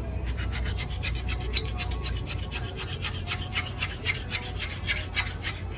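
Rapid back-and-forth abrasive rubbing on a metal diesel engine part, about five strokes a second. The strokes stop shortly before the end.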